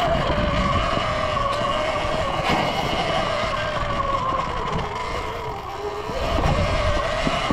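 Surron Ultra Bee electric dirt bike's motor whining while riding a trail, its pitch wavering with the throttle, sagging about five seconds in and climbing again near the end, over rumbling wind and trail noise.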